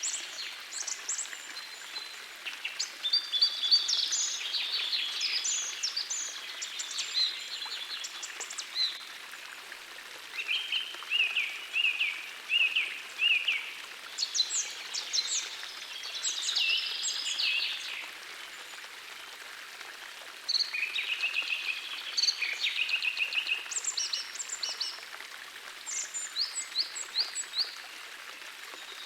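Songbirds singing in short repeated phrases, one after another every few seconds, over the steady rush of a small forest stream.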